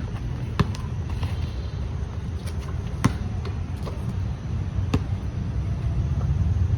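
A handful of sharp, isolated cracks or knocks at uneven intervals, the clearest about half a second in, about three seconds in and near five seconds in, over a steady low rumble of wind or traffic noise.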